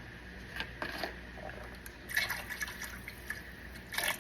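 Water and liquid splashing and dripping in short, irregular sounds as raw chicken wings are washed.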